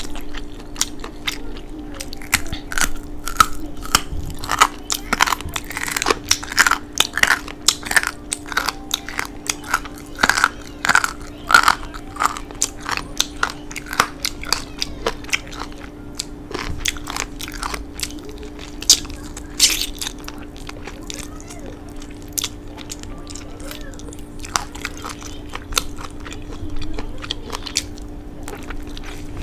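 Close-up biting and chewing on barbecue ribs, teeth pulling meat off the bone, with many quick sharp mouth clicks that are busiest in the first half. A steady low hum runs underneath.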